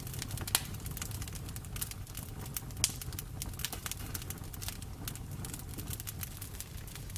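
Bonfire burning with a steady low rumble and constant crackling, with two louder sharp pops about half a second and about three seconds in.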